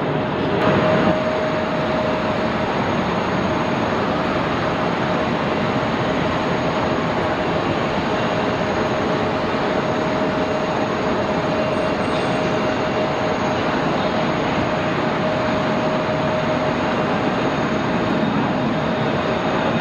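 Jet airliner engines running steadily: a continuous rushing noise with a steady whine at one pitch.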